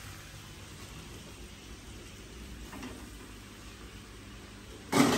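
Faint, steady sizzle of noodles and vegetables frying in a steel kadai on a gas burner. A brief louder sound breaks in near the end.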